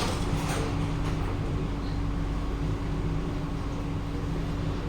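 Interior running noise of a Kawasaki–CRRC Sifang C151A metro train, heard in a motor car: a steady low rumble with a held motor tone.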